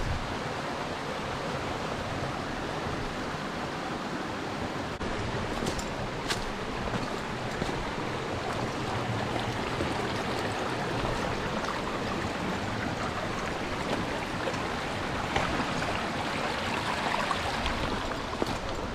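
Steady rush of running water in a mountain stream, with a couple of faint clicks about six seconds in.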